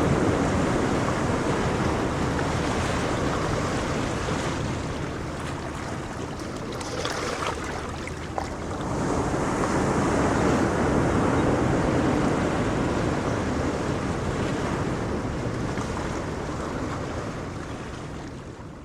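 Ocean surf on a shore: a wash of waves that ebbs, then a new wave swells in about nine seconds in and slowly recedes.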